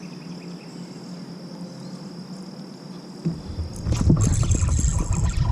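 Water splashing and sloshing against a kayak, with knocks, starting about three seconds in and getting louder. Before that, a steady high insect drone.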